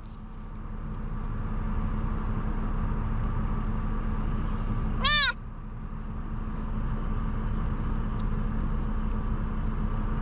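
A newborn deer fawn bleating once, about halfway through: a short, high, mewing call that rises and falls in pitch. A steady low engine hum runs underneath.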